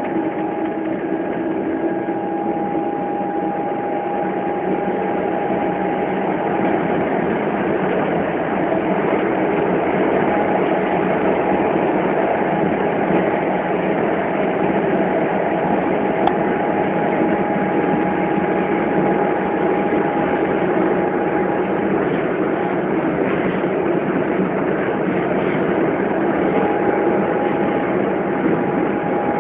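Inside a moving Melbourne electric suburban train: the steady rumble and rush of the carriage running along the track, with a steady whine over it.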